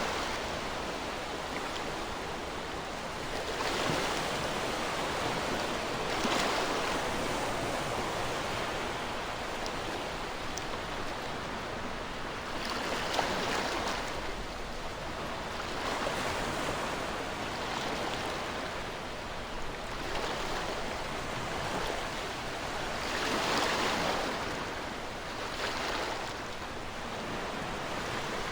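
Ocean waves breaking on a shore, a continuous wash of surf that swells and falls back every few seconds.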